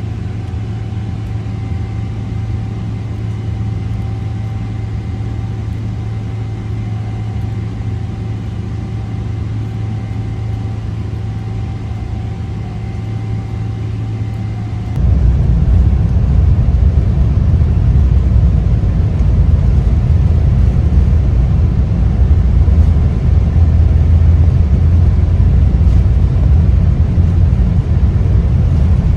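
Boeing 777-300 cabin noise: a steady engine hum with faint steady whine tones, then about halfway through an abrupt jump to a much louder, deeper rumble, consistent with the engines going to takeoff thrust for the takeoff roll.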